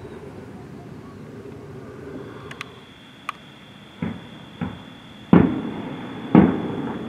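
Distant aerial fireworks going off over a low steady background noise: a couple of faint sharp cracks, then four booms, the last two the loudest, each with a short echoing tail.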